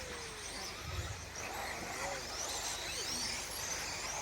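Radio-controlled 4x4 short course trucks racing round the track, their motors whining in pitches that rise and fall as they speed up and slow down.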